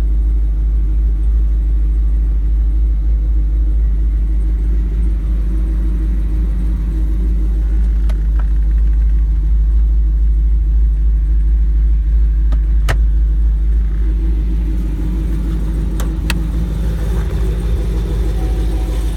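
Twin-turbo V8 of a 2013 Camaro ZL1 running steadily at idle with a deep, even rumble. A few sharp clicks come through about 8, 13 and 16 seconds in.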